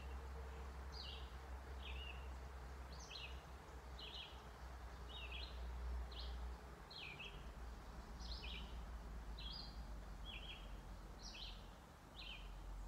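A songbird repeating short, high chirps that fall in pitch, about one and a half a second, over a low steady rumble.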